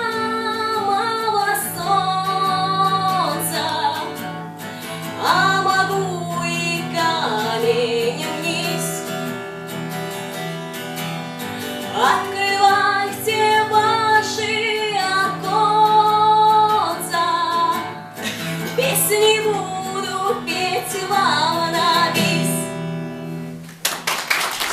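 Music: a woman singing long, held notes that swoop up into each phrase, over acoustic guitar accompaniment.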